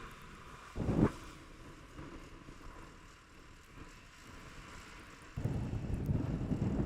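Blizzard wind buffeting the microphone, with a sharp gust about a second in and heavier, sustained low rumbling in the last second and a half.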